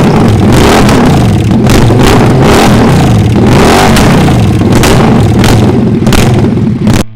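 Motorcycle engine revving loudly, its pitch rising and falling again and again, then cutting off suddenly near the end.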